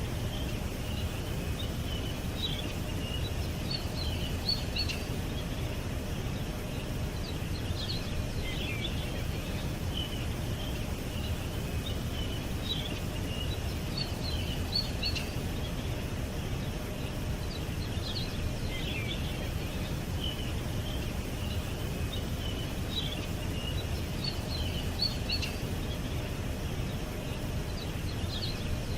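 Small birds chirping, short high calls and twitters coming every second or two, over a steady low rumble.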